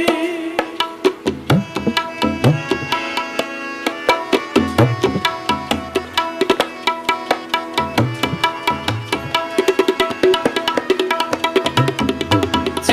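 Instrumental interlude in Sikh raag kirtan: tabla playing a fast, dense rhythm under a sustained harmonium melody, with the strokes packing tighter near the end.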